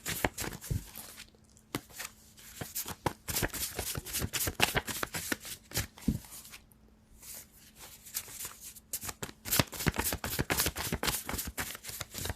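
A deck of cards being shuffled by hand: rapid, crisp flicking and riffling clicks that pause briefly twice.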